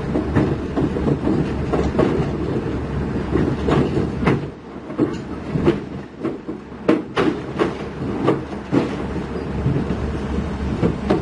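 Heavy diesel machinery running with a steady low rumble, overlaid by irregular clanks and rattles of steel on steel that bunch up in the middle, typical of a crawler bulldozer's track links.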